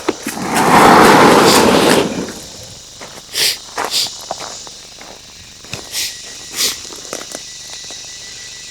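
Handling noise on a clip-on microphone: a loud rustling scrape lasting about a second and a half near the start, then a few short rubs and knocks, over a steady chorus of crickets.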